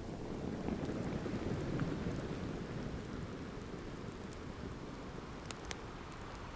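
Ocean surf washing in as a low rush that swells over the first couple of seconds and then eases, with the sharp pops and crackles of a log fire over it, two louder pops near the end.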